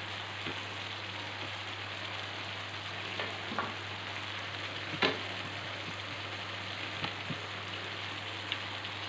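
Curry spice paste frying and sizzling in oil in a wok, stirred with a wooden spatula that knocks against the pan a few times, most sharply about five seconds in. The paste is being cooked until the oil separates from it (pecah minyak).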